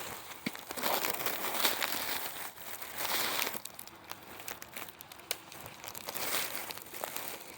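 Crinkling and rustling in repeated bursts, with a few sharp clicks, as apples are picked and put into a bag.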